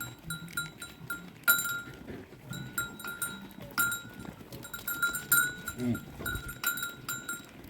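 Small bells on sheep or goats clinking irregularly as the flock moves, with a bleat about six seconds in.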